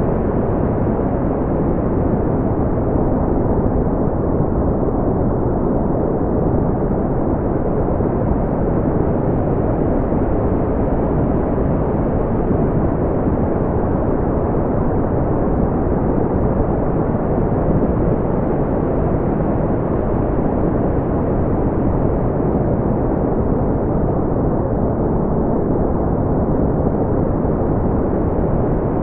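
Brown noise: a steady, deep rumbling hiss with most of its energy low down and little treble, unchanging throughout.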